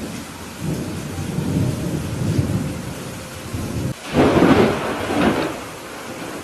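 Steady rain with thunder: a low rumble rolls for a few seconds, then a louder, sharper thunderclap breaks about four seconds in and fades out.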